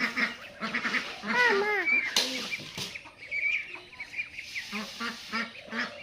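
Domestic geese honking and calling while they feed: repeated arching honks, loudest about a second and a half in, over a run of short low calls, with a couple of sharp clicks a little after two seconds.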